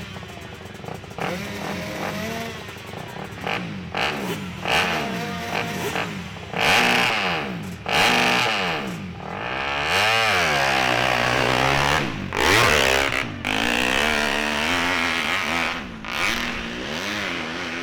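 Hill-climb motorcycle engine revving hard, its pitch repeatedly rising and falling as the throttle is opened and closed, with the loudest peaks about two-thirds of the way through. It fades near the end.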